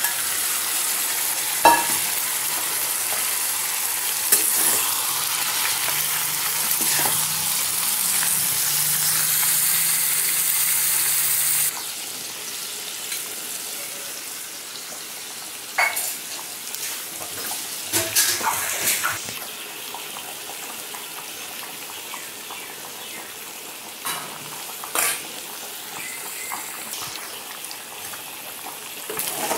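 Pork pieces and onions sizzling in a steel kadai, a steady hiss that suddenly becomes quieter about twelve seconds in. Now and then a metal utensil clinks against the pan.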